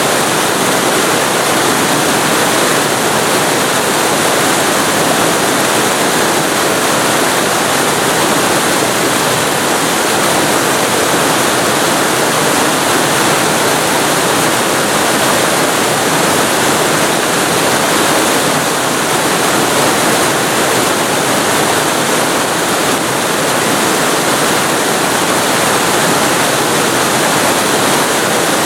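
Waterfall recorded at close range: a loud, steady rush of falling water with no breaks or changes.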